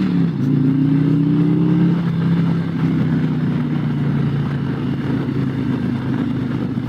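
Harley-Davidson Road Glide's V-twin engine pulling under acceleration: the pitch climbs, drops at an upshift about two seconds in, then holds steady as the bike cruises.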